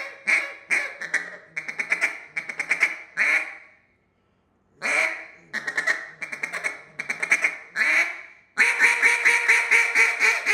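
Acrylic Cache duck call blown in calling sequences: strings of quacks that start loud and fall off, with a short pause about four seconds in. Near the end comes a fast, dense run of quick quacks, about seven a second.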